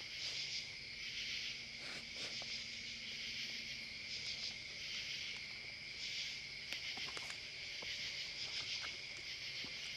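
Chorus of crickets and other insects: a steady, high-pitched, pulsing hiss. A few faint clicks come through now and then.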